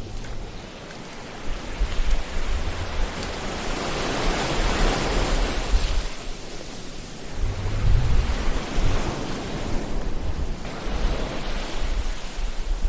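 Ocean waves washing in, a surge swelling to its loudest about five seconds in and easing off, over a low rumble that comes and goes.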